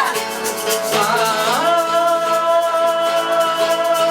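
Live band music: a shaker keeps a steady rhythm while, from about a second and a half in, a voice holds one long note.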